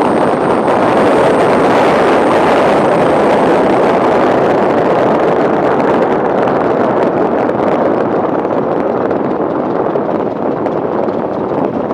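Open-cockpit Tiger Moth biplane in flight: a loud, steady rush of airflow and engine noise, easing slightly near the end.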